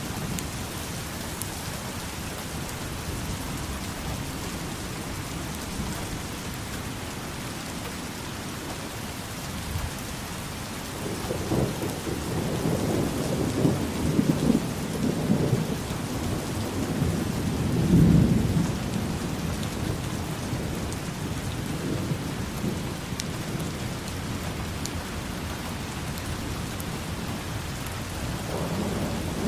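Steady rain falling, with a long roll of thunder rumbling in about a third of the way through, building to its loudest about two thirds in and then fading, and a smaller rumble near the end.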